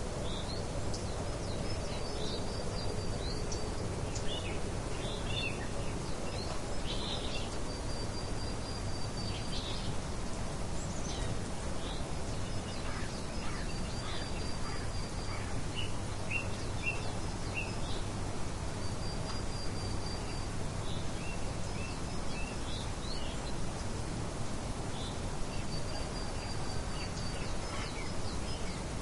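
Birds chirping over a steady low rumble of outdoor noise, with a short high trill that comes back about every six seconds.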